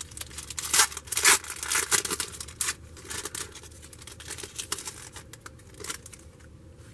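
1993 Skybox Impact football trading cards being handled and flipped through in the hands: a quick run of papery scrapes and flicks, busiest in the first three seconds and then thinning out.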